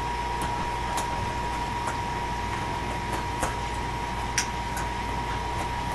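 Steady indoor background hum with a thin, steady high tone, and a few faint, soft clicks scattered through it.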